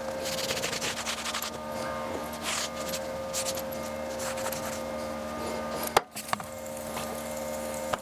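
Irregular rubbing and scrubbing strokes on greasy metal parts of a surface grinder as they are cleaned down with WD-40, over a faint steady hum. A single sharp knock comes about six seconds in.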